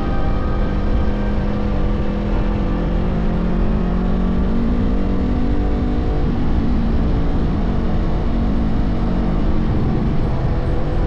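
Honda CBR500R parallel-twin motorcycle engine running steadily while riding, mixed with a dense rush of noise.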